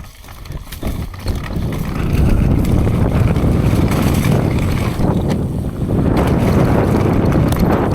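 Wind rushing over the microphone and mountain bike tyres rumbling on dirt as the bike picks up speed dropping in to a dirt jump. The rush builds about a second in and stays loud, easing just before the end.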